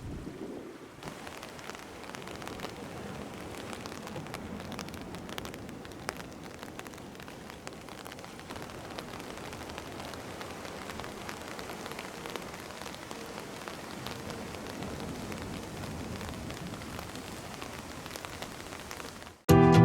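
Heavy rain falling on a hard surface: a steady hiss dotted with many small drop hits. Music cuts in at the very end.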